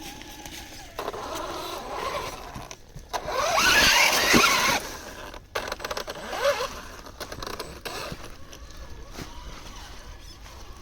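Radio-controlled crawler truck's electric motor and geared drivetrain whining, the pitch rising and falling with the throttle. The loudest hard run comes about three and a half to five seconds in, with shorter bursts before and after.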